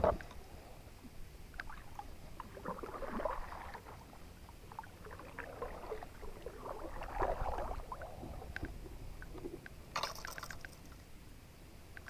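Water sloshing and gurgling against a kayak as it is paddled, swelling twice with paddle strokes. There is a sharp knock at the start and a brief splash near the end.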